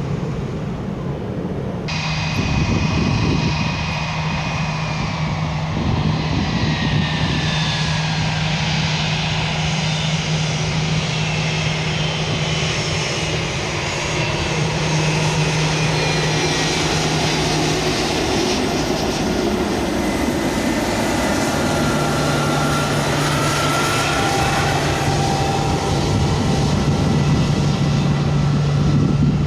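Jet airliner engines passing close by: a loud, steady rush with high whining tones that slowly fall in pitch. The sound changes abruptly about two seconds in.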